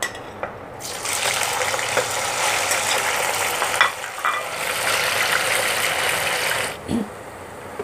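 Cut soya chaap pieces sizzling in hot oil as they fry. The sizzle starts suddenly about a second in, holds steady, and cuts off shortly before the end.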